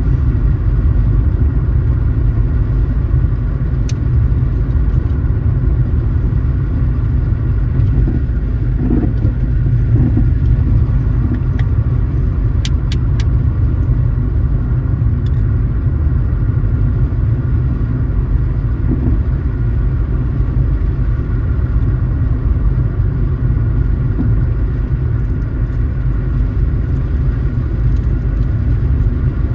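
Steady low road and engine rumble of a car being driven, heard from inside. A few faint sharp clicks come about halfway through.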